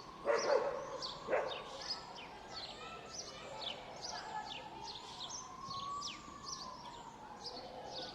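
Park ambience: many small birds chirping over and over in quick, high, falling notes, with a faint hum that slowly rises and falls in pitch. Two short, louder calls stand out in the first second and a half.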